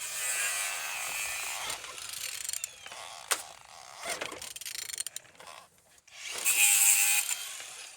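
A removed car engine being turned over by hand with a ratchet wrench: the ratchet's pawl rasps through two long pulls, with a few sharp clicks between them. The engine turns freely and is not seized.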